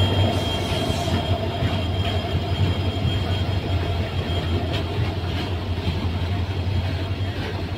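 Passenger train rolling slowly, heard from inside a coach: a steady low rumble of the running gear with a faint thin wheel squeal that fades out early on, and a few light clicks of wheels over rail joints in the second half.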